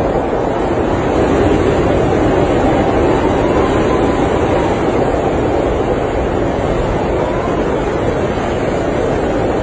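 Blizzard wind blowing steadily, a dense, unbroken rushing noise.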